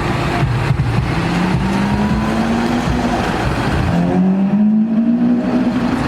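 Car engine accelerating, its note climbing steadily. About four seconds in the pitch drops at a gear change and climbs again, over street traffic noise.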